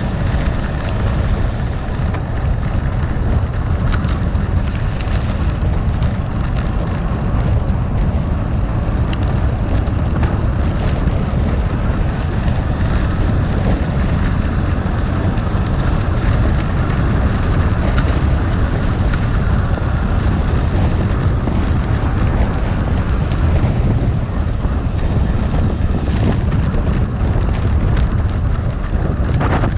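Gravel bike tyres rolling over rough gravel at low speed: a steady crunching rumble with wind on the microphone and a few small clicks.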